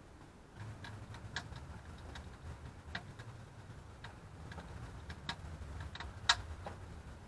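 Wood fire crackling: irregular sharp pops and snaps over a low rumble, the loudest pop near the end.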